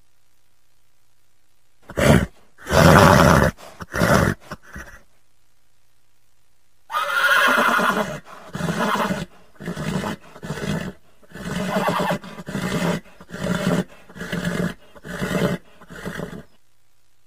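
Horse neighing: a few loud calls about two seconds in, then after a pause a long whinny that breaks into a steady run of pulses, about one and a half a second, ending shortly before the end.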